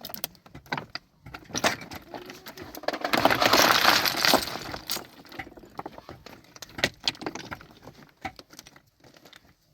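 Hard objects knocking and clattering: scattered sharp knocks, with a dense rattling clatter for about two seconds in the middle.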